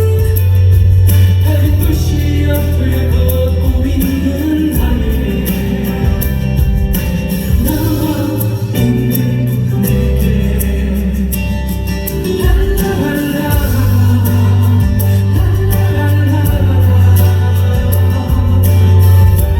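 Live performance of a pop ballad: band accompaniment with a strong bass line and singing voices over it.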